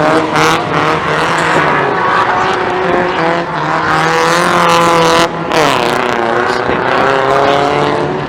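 Car engine revved hard, its pitch climbing steadily for about five seconds, then dropping suddenly and climbing again.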